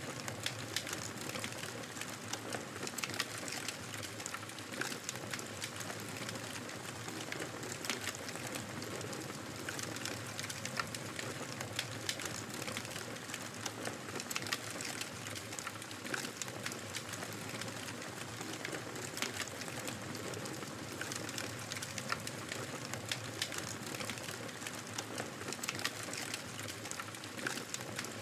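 Wood fire crackling in a fireplace: a steady hiss with frequent small sharp pops and snaps throughout.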